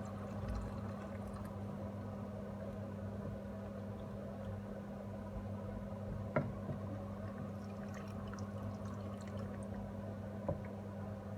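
Chicken simmering in a pan with a little added water, a faint steady bubbling hiss over a steady low hum. Two light knocks, one about halfway and one near the end.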